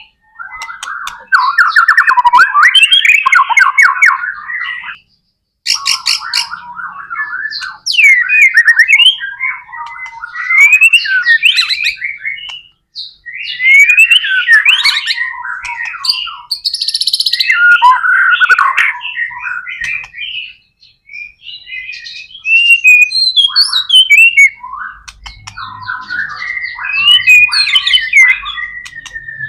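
White-rumped shama (murai batu) in full, loud song: long runs of rapid whistles, sweeping notes and chattering trills, with brief pauses between bouts.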